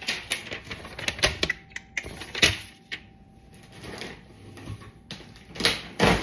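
A delivery box being opened and its packaging handled: an irregular run of clicks, scrapes, rustles and knocks, with the loudest knocks about two and a half seconds in and near the end.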